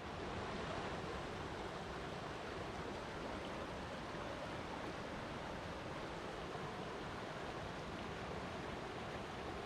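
Flowing water rushing steadily, an even wash of noise with no breaks or splashes standing out.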